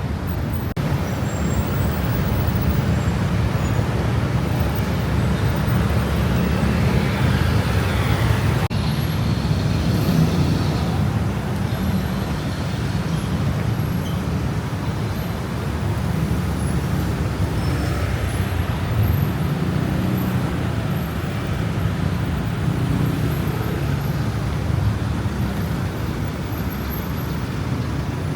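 Steady road traffic on a busy city street: a continuous low rumble of passing cars and buses, swelling about a third of the way in.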